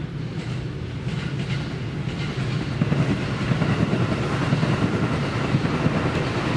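A train passing on the line, its rumble growing louder over the first three seconds and then holding steady.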